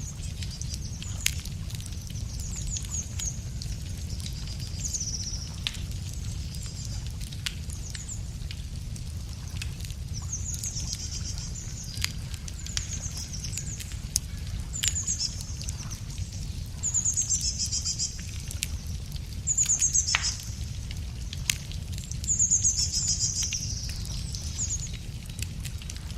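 Wood campfire crackling with scattered sharp pops, while a songbird sings repeated short trilling phrases; the loudest phrases come about two-thirds of the way through. A steady low rumble runs underneath.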